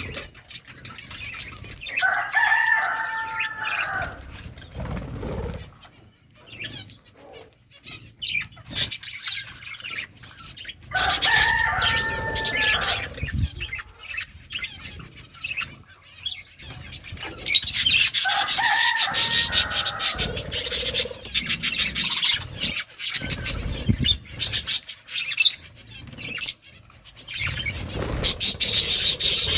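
Birds chirping and chattering, with dense high twittering in the second half. A drawn-out call of about two seconds stands out three times.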